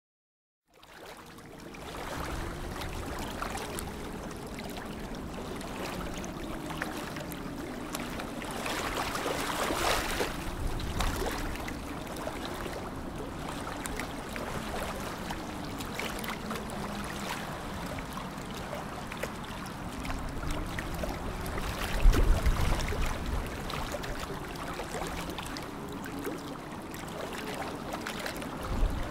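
Lake water ambience: a steady wash of water lapping and trickling. It fades in over the first couple of seconds, swells louder about a third of the way through, and surges again with a deep low rumble about three quarters of the way through.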